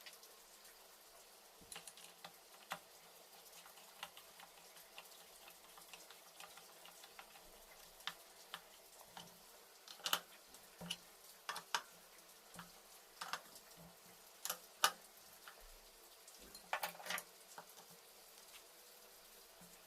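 Irregular small clicks and light knocks of hand tools and parts being handled during engine assembly, sparse at first and busier in the second half.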